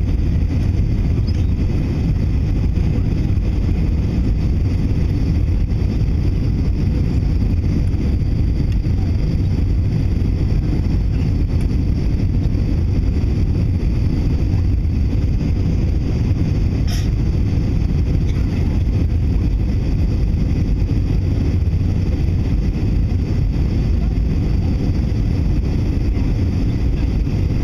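Steady low rumble of an Airbus A321's engines and the airflow around it, heard inside the cabin from a rear window seat while the airliner is in flight on its way in to land.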